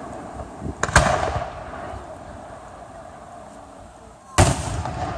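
Aerial fireworks shells bursting: a sharp bang about a second in, just after a smaller pop, and a louder bang near the end, each trailing off in a rumbling echo.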